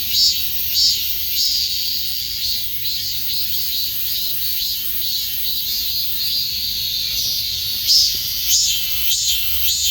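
Cicadas singing, a loud high-pitched buzzing chorus. It pulses a little under twice a second at first, runs steadier through the middle, and pulses again near the end.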